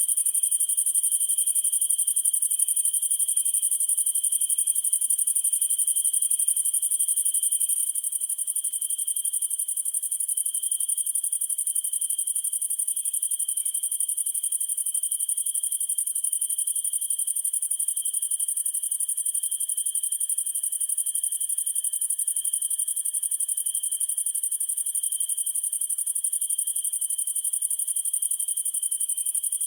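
Night insect chorus of crickets trilling steadily: a very high continuous trill and a lower one. For the first several seconds a softer, evenly repeating chirp sits beneath them.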